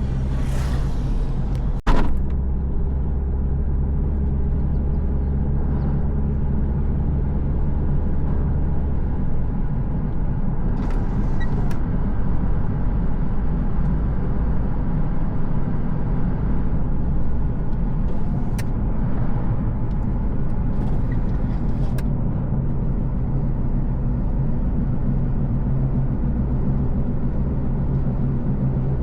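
Car driving at a steady pace: continuous low engine hum and road noise. A sharp knock comes about two seconds in, and a few faint clicks follow later.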